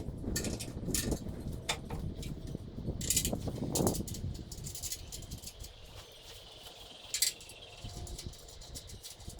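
Scattered knocks, clicks and light rattling from work being done, busiest in the first four seconds, then sparser, with one sharp click near the end.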